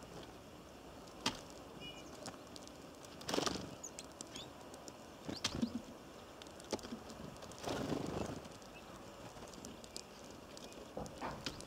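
Small birds at a feeder: scattered short flutters and clicks, with a brief high chirp about two seconds in.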